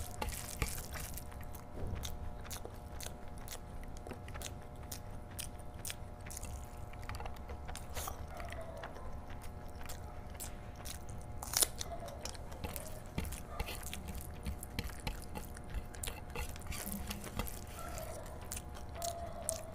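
Close mouth sounds of a person chewing a big mouthful of curry and rice, with wet, sticky clicks as a bare hand squeezes and mixes the rice into the gravy on a plate. One louder click comes a little past the middle, over a faint steady hum.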